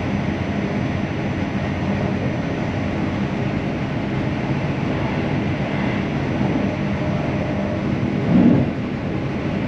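Steady running noise of a CrossCountry Voyager diesel-electric train heard from inside the carriage: a constant engine drone with rail and wheel noise, and a brief louder rumble about eight seconds in.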